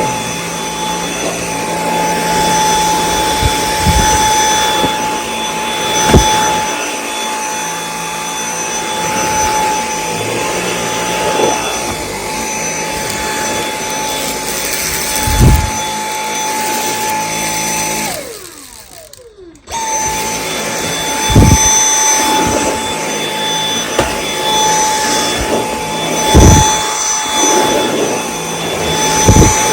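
Dyson V8 cordless stick vacuum running with a steady high whine, with occasional knocks. About 18 seconds in the trigger is let go and the motor winds down with a falling whine, then it starts up again about two seconds later.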